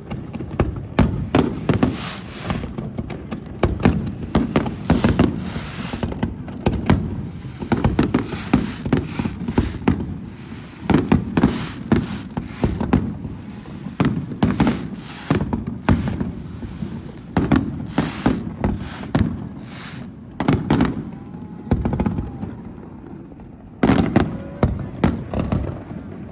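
Fireworks display: aerial shells bursting in rapid, overlapping bangs with deep booms, thinning out for a moment near the end before another flurry.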